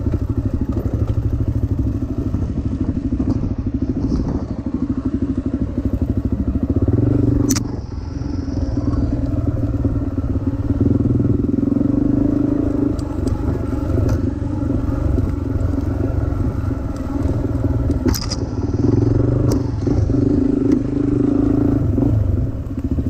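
Dirt bike engine running under load on a trail, the throttle rising and falling. A sharp knock comes twice.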